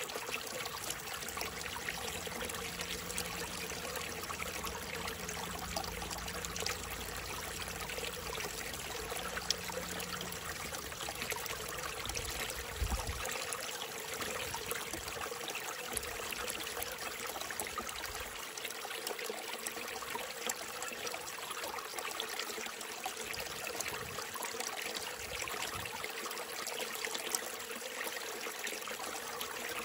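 Small mountain stream running steadily, water trickling and splashing over rocks.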